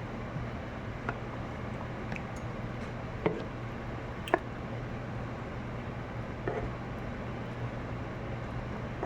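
A steady low hum under a hiss, with a few short sharp clicks, the loudest two about three and four seconds in.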